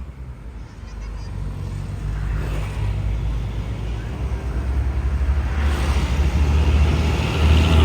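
Heavy truck's diesel engine running with a steady low rumble, growing louder over the last couple of seconds along with tyre and road noise.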